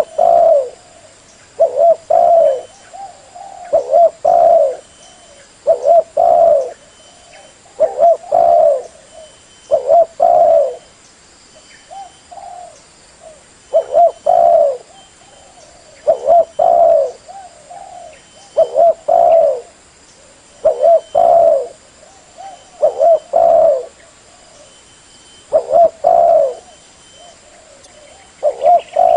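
Spotted dove (tekukur) cooing: a short phrase of two or three soft coos repeated about every two seconds, the call used to lure other spotted doves.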